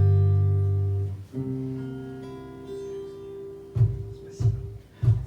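Instrumental break in a song: guitar chords ringing out and fading, with a new chord struck about a second in and a few short low hits near the end.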